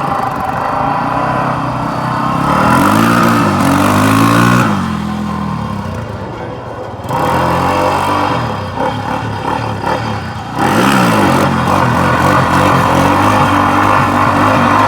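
Car engine running and being revved, its pitch sweeping up and down in a few swells, with steadier running between.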